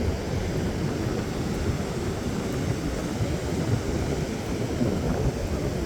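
Wind buffeting the microphone as a steady, uneven low rumble, with surf beneath it.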